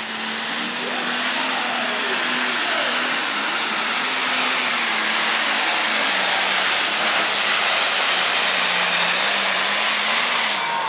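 Super stock pulling tractor's turbocharged diesel engine running flat out under load during a pull, a loud steady roar with a high turbo hiss over it, its pitch sagging slowly as the sled bogs it down. It cuts off abruptly near the end.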